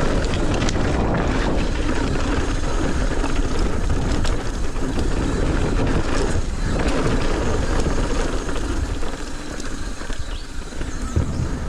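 Mountain bike riding fast down a dirt trail: a steady rush of wind and tyre noise with a heavy low rumble, shot through with the rattle and clatter of the bike over the bumps.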